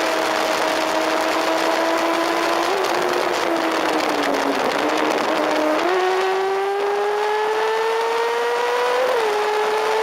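Sport motorcycle engine running at high revs under way, with a heavy rush of wind over the microphone. The revs sag a few seconds in, jump up near the middle and climb steadily, then drop briefly just after the nine-second mark, as at a gear change.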